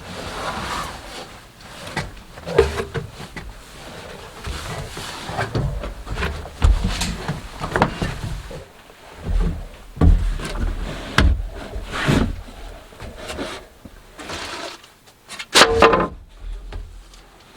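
Irregular wooden knocks, thumps and rustling of someone climbing and crawling about in a cramped attic among the roof trusses. A louder cluster of knocks comes near the end.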